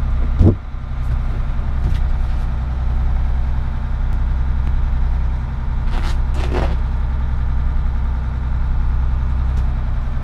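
A sailboat's engine running steadily under way, with a thump about half a second in.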